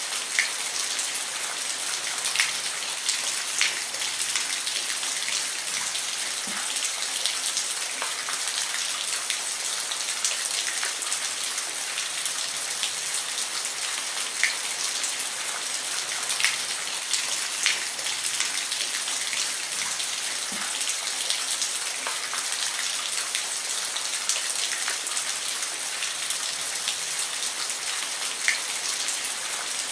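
Steady rain falling on a roof: an even hiss with separate drops ticking sharply every second or so.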